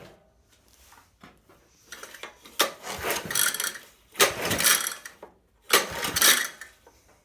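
Honda 200cc small engine being pulled over three times on its recoil starter, each pull a rough whirring rasp about a second long, turning over without firing.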